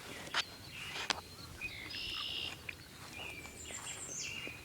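Wild birds chirping: a few short high calls around the middle, then a quicker, higher series of notes near the end, over faint outdoor background noise.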